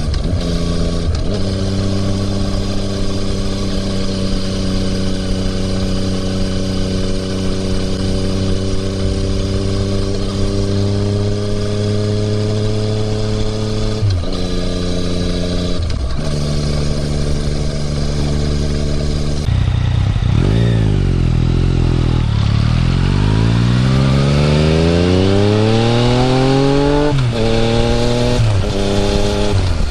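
2020 Yamaha MT-09 inline-three with an Akrapovič exhaust, ridden on the road. The engine holds a steady cruise with two brief dips in pitch, then slows. It then accelerates hard, the pitch climbing and dropping back twice near the end as it shifts up.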